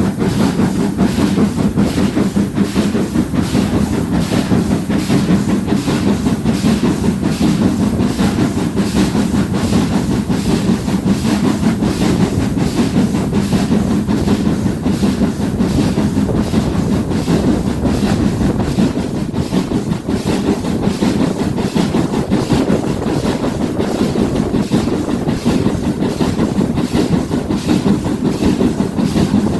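Train hauled by GWR Castle-class steam locomotive 4079 Pendennis Castle running along the line: a steady heavy rumble with a fast, even, repeating beat.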